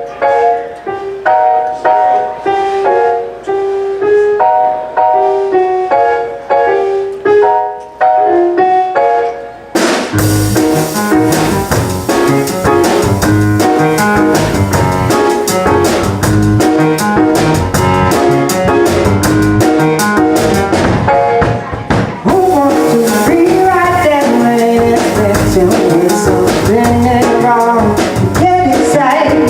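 Live band music: a keyboard plays a repeated chord figure alone for about ten seconds, then drums and bass guitar come in and the full band plays on.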